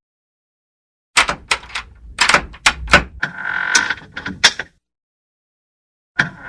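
A door being worked on its hinges and latch: a quick run of sharp clacks and knocks, with a short steady squeal from the hinge in the middle. After a gap, another burst of clacking starts near the end.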